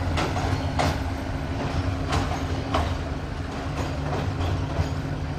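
Passenger coaches rolling over a steel girder rail bridge: a steady low rumble, with pairs of wheel clacks over a rail joint about every two seconds as each coach's bogies pass.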